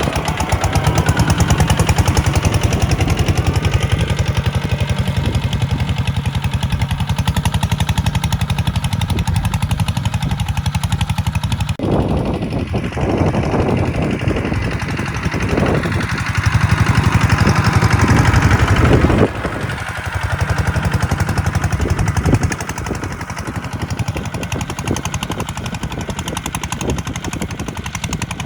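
Diesel engine of a Kubota tractor working while plowing, with a rapid, even chugging of firing beats. Its level and note rise and fall a few times as the work goes on.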